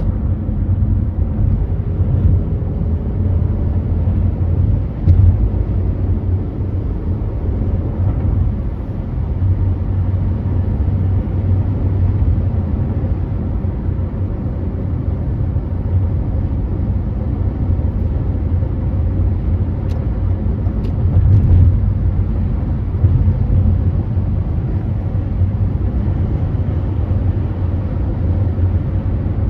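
Car driving at freeway speed: a steady low rumble of tyre, road and engine noise.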